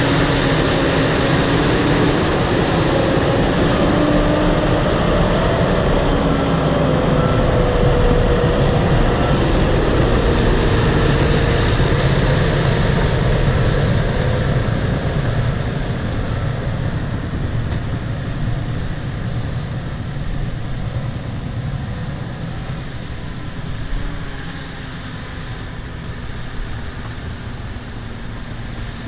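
Bulldozer's diesel engine running with its tracks clattering while it strips topsoil, with wavering pitched whines over the first half. The sound eases off gradually from about halfway through.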